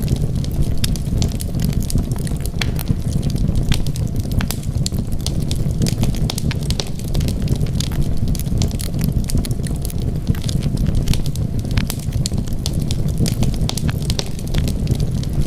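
Wood fire burning steadily with a low rumble and frequent irregular sharp crackles and pops.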